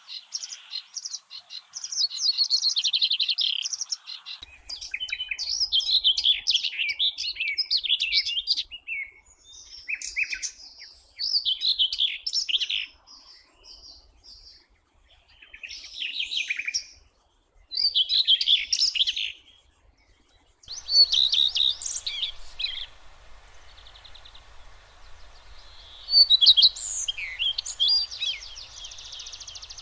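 Songbird singing: a string of high, quick song phrases, each a second or two long, with short pauses between them. About two-thirds of the way through, a faint steady hiss comes in underneath.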